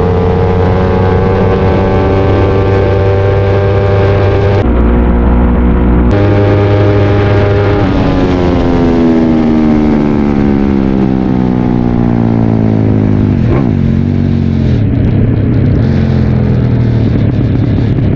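Drag-racing motorcycle engine running hard at high revs, its sound changing abruptly twice in the first six seconds. From about eight seconds in, the pitch falls steadily for several seconds as it slows, then settles at a lower, steady note.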